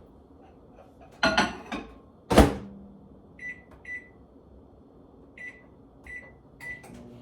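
Microwave oven being set: a brief rattle, then the door shutting with a loud clunk, followed by five short keypad beeps as the one-minute cook time is entered.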